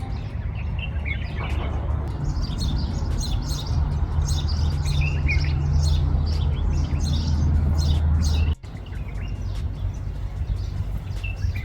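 Many small birds chirping and twittering, with a steady low rumble underneath. The sound drops out abruptly for a moment about eight and a half seconds in, then carries on.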